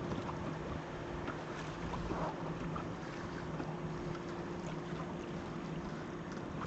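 A boat's motor running with a steady hum, under wind and water noise.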